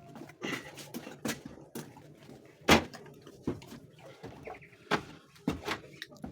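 A string of sharp, irregular knocks and clatters, the loudest a little under three seconds in.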